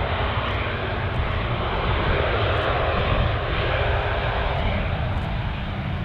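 Jet engines of an Airbus A319 airliner during its landing: a steady, even noise with a deep low rumble underneath.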